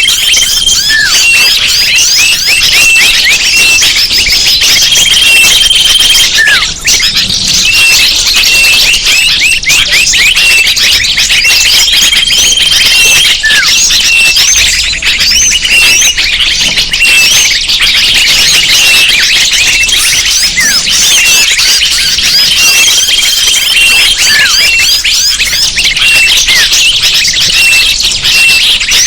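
Bird-lure recording: a dense, loud chorus of many small birds chirping and twittering at once, with a short held whistle repeating about every six seconds.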